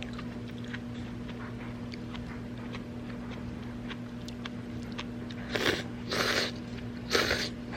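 A person chewing crunchy food: three crisp crunching bites about five and a half, six and seven seconds in, over a steady low hum and a few faint small clicks.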